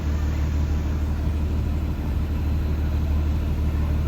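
2023 IC CE school bus engine running with a steady low drone, heard from inside the bus.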